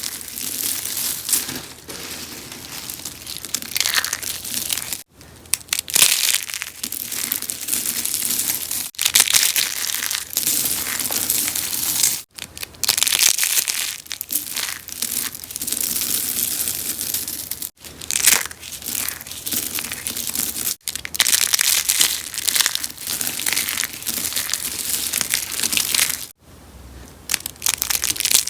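Rose-shaped soap flowers being crushed and crunched, a dense, continuous crackling broken by short pauses every few seconds.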